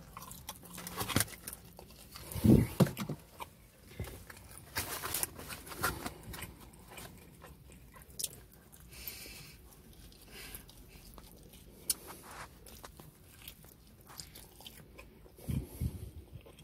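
Close-miked biting and chewing of pepperoni pizza, with irregular wet mouth clicks and crunches. Two brief louder low-pitched sounds come about two and a half seconds in and near the end.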